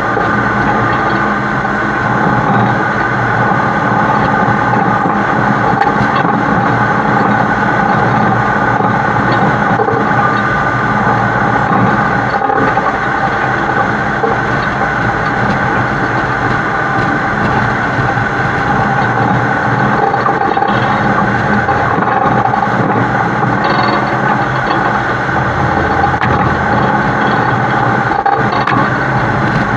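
Heavy truck's diesel engine and road noise picked up by a camera mounted on the truck's side, running steadily and loudly without change.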